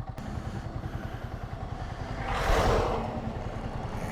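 Motorcycle engine running at low speed with a steady, even low pulse. A brief rush of noise swells and fades about two and a half seconds in.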